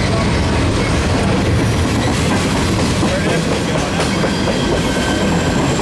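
Freight train of insulated refrigerated boxcars rolling past close by: a steady, loud rumble of steel wheels on the rails.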